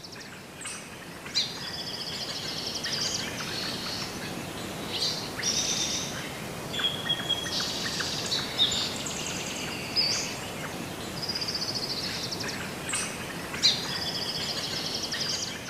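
Songbirds singing in repeated high, trilling phrases over a steady background hiss, with a few sharp clicks.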